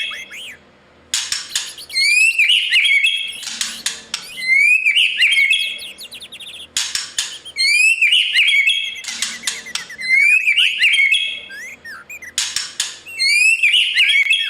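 White-rumped shama singing: about five loud phrases a few seconds apart, each opening with a rising whistle and running on into quick whistled notes mixed with scratchy notes.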